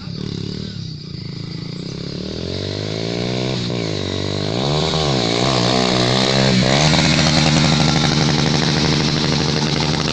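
Motorcycle engine running and being revved up and down several times, then held at a steady higher speed, louder toward the end.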